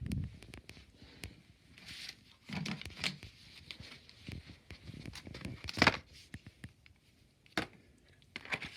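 Rustling and crinkling of packaging and gift bags being handled, with scattered light clicks and taps; a louder rustle about six seconds in.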